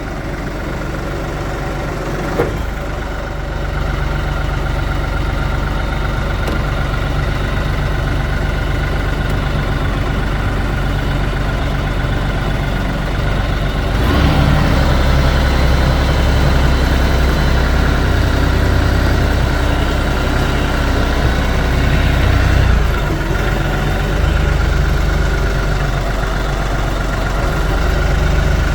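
Kioti NS5310 hydrostatic tractor's diesel engine running steadily. About halfway through it grows deeper and louder for some eight seconds, then settles back.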